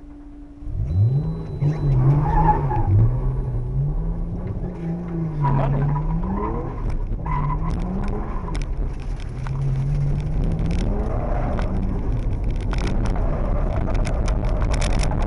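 Nissan Skyline engine heard from inside the car while it is driven hard on track: a sharp rev-up about a second in, then revs rising and falling again and again as the car drifts. In the last few seconds a rushing noise of tyres and road grows, with scattered ticks.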